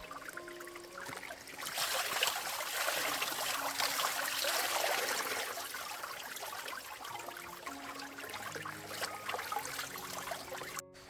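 Running water splashing and trickling, swelling a couple of seconds in and easing off later, with soft background music under it.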